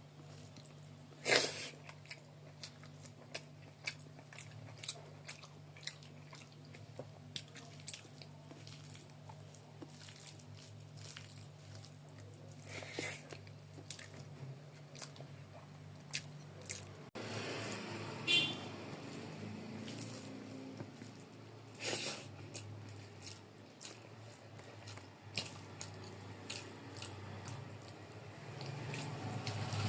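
Close-miked eating of rice and gravy curry: chewing, mouth smacks and wet clicks at irregular intervals, over a steady low hum.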